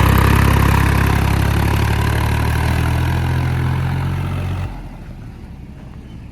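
Tractor diesel engine running steadily at a low, even hum, which stops abruptly a little over four and a half seconds in, leaving a much quieter background.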